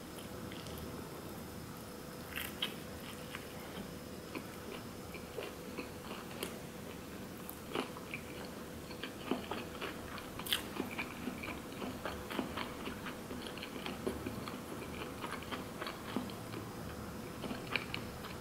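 Close-up mouth sounds of a person biting and chewing a nori-wrapped sushi roll: soft, irregular wet clicks and light crunches over a faint steady hum.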